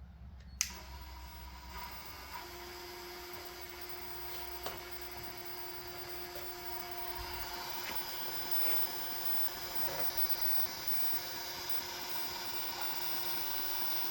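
Knife-sharpening belt grinder switched on with a click about half a second in, its motor and belt then running steadily with a whine that grows slightly louder.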